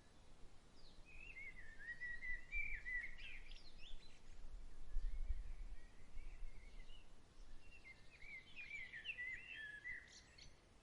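A songbird singing two runs of quick, warbling, choppy phrases, the first about a second in and the second near the end, over a low rumble of breeze that swells in the middle.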